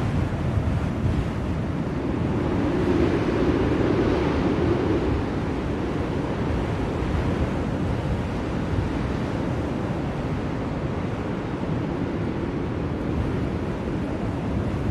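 Blizzard wind blowing steadily in a deep, even rush, swelling in a gust about three seconds in.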